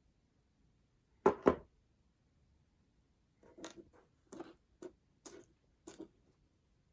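Sharp clicks of sterling silver jump rings being closed with pliers, the click meaning the ring's ends have met tightly with no gap at the seam: two loud clicks close together about a second in, then a run of softer clicks.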